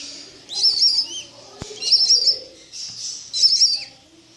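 Budgerigar chicks cheeping in three short high bursts, about a second and a half apart.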